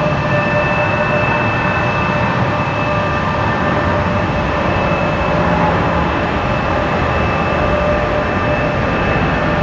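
Jet aircraft engines running steadily: a loud, even rumble with a constant whine on top.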